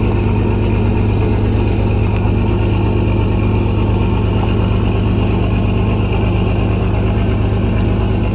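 An engine running steadily at an even speed, loud and unchanging.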